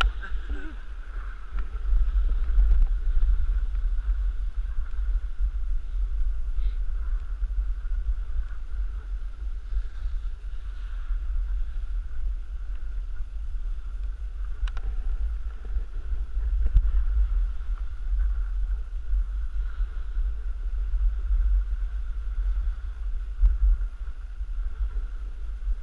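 Wind buffeting the microphone of a camera carried by a moving skier, a steady low rumble, over a fainter steady hiss. A single sharp click comes about fifteen seconds in.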